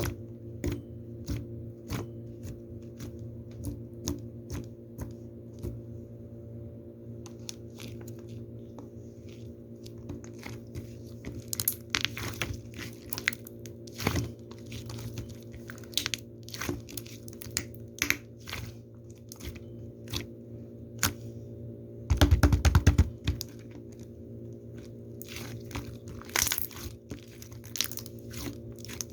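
Slime being pressed, poked and stretched by hand, giving irregular sharp clicks and pops over a steady low hum, with a brief louder low rumble about three quarters of the way through.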